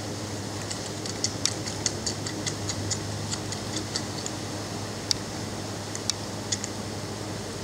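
Light, irregular clicking from a litter of six-week-old Belgian Malinois puppies crowding their mother to nurse, several clicks a second at times, over a steady low hum.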